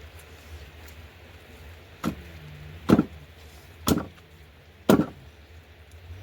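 Four sharp knocking strikes about a second apart, over a steady low background noise.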